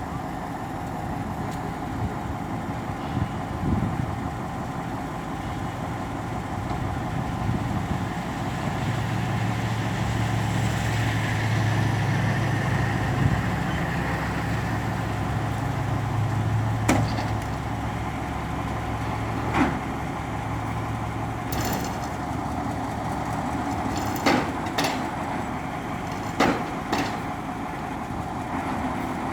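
KATO truck crane's diesel engine running steadily. Its low drone grows stronger for several seconds in the middle and then settles back. Several sharp clicks or knocks sound in the second half.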